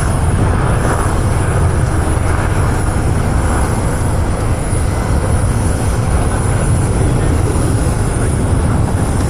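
Aircraft engine noise at an air show: a steady, loud rumble with no breaks.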